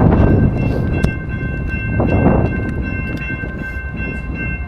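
Approaching freight train: a deep rumble with a chord of steady high tones held throughout, swelling briefly about two seconds in.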